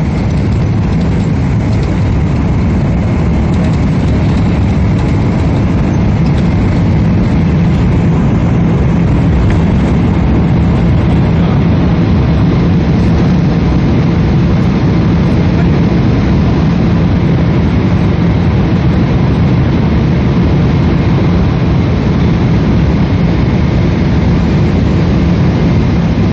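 Steady jet engine and airflow noise inside the cabin of a Boeing 777, heard from a window seat, a constant low hum with a hiss above it.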